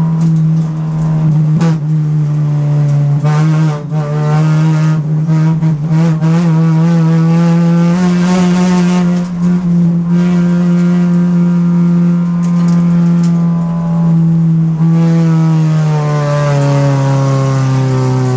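Race car engine heard from inside the cockpit, held at high, steady revs with brief dips in loudness, the revs falling steadily near the end.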